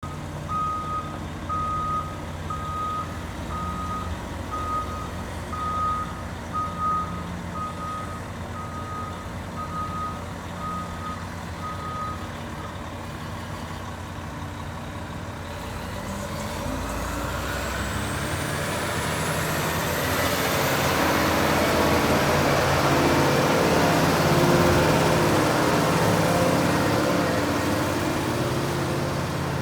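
CAT 740B articulated dump truck: its reversing alarm beeps about once a second over the diesel engine for the first twelve seconds or so, then stops. About halfway through, the engine speeds up with a rising high whine and grows loud, holding there near the end.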